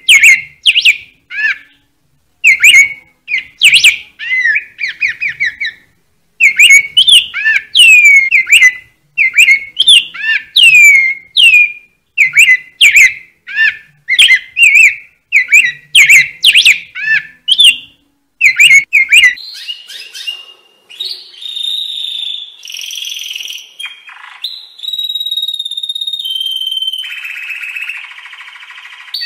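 Bird calls: rapid series of falling whistled chirps with short silent gaps between them. About two-thirds of the way through they give way to longer held whistled notes at shifting pitches.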